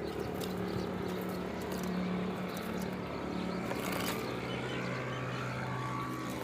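A steady low engine-like hum, with faint chirps from the finches over it.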